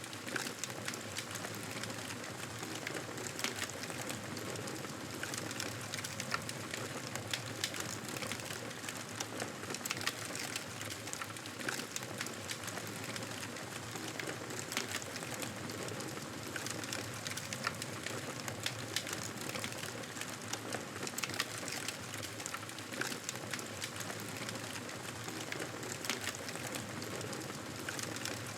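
Wood fire crackling in a fireplace: a steady hiss dotted with frequent, irregular pops and snaps.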